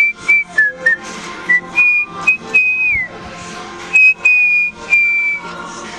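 A person whistling a tune: a few quick short notes, then longer held notes, one sliding down at its end about three seconds in. A steady low hum runs underneath.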